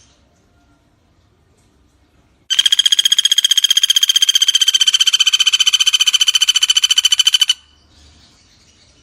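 Common flameback woodpecker (pelatuk bawang) giving one long, fast rattling trill of rapidly repeated notes at a steady pitch. It starts abruptly a couple of seconds in and stops sharply about five seconds later.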